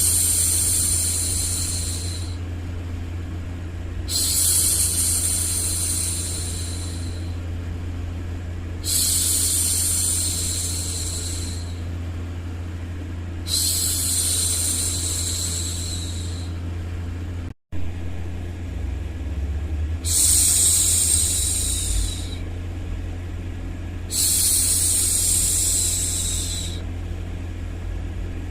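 A woman's voice hushing 'shhh' in long, high hissing breaths, repeated about every four to five seconds, six times, over a steady low white-noise bed meant to soothe a baby to sleep. The sound cuts out for an instant about two-thirds of the way through.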